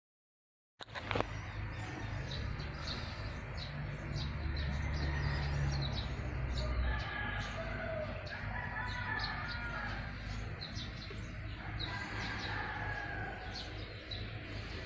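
Hyundai Accent's gasoline engine running at a steady idle, now starting again after its rat-chewed wiring was repaired, its low hum a little stronger for a few seconds mid-way. Birds chirp and a rooster calls throughout. It all begins abruptly about a second in.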